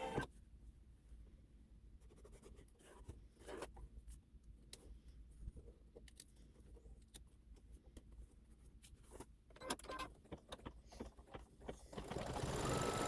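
Scattered light clicks and taps over a low background. Near the end, an embroidery machine starts stitching, with a steady, louder run.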